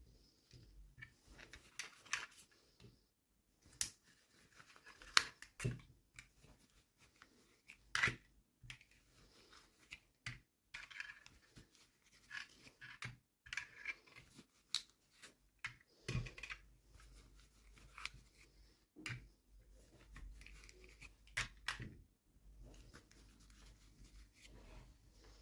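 Toy packaging being opened and miniature toys handled: irregular sharp clicks and taps with soft rustling and tearing in between.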